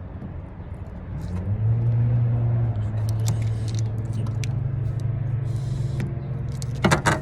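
A motor vehicle engine running, a steady low hum that rises in about a second in and then holds. A few sharp clicks come near the end.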